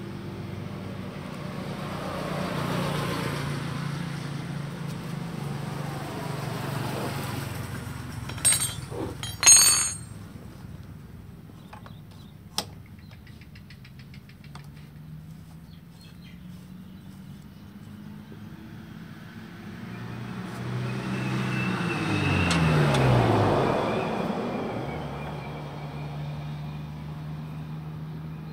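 Yamaha L2 Super's two-stroke single-cylinder engine idling, revved up about 20 seconds in and dropping back to a steady idle. A few sharp metallic clinks come about 8 to 10 seconds in.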